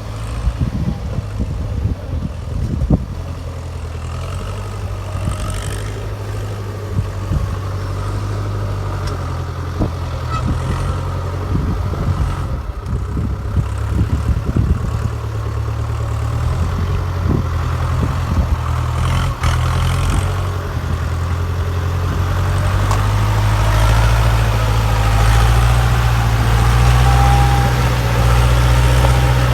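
Ford 6600 tractor's three-cylinder diesel engine running steadily, growing louder over the last several seconds, with scattered knocks and rattles.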